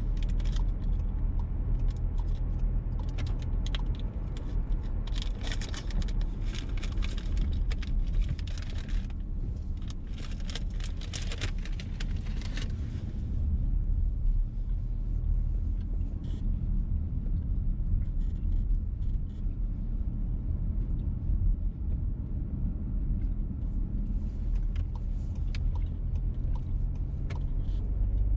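Inside a VW T-Roc petrol car while driving: steady engine and road rumble. Sharp, irregular clicking and crackling runs through the first half and thins out after about thirteen seconds.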